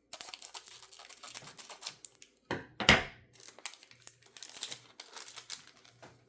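A Magic: The Gathering booster pack's foil wrapper being torn open and handled, a dense run of crinkling and crackling with the loudest crackle about three seconds in.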